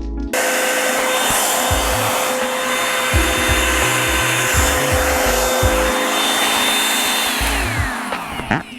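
Revlon One-Step paddle-brush hair dryer switching on just after the start and blowing steadily with a high whine. Near the end it is switched off, and the whine falls as the motor spins down.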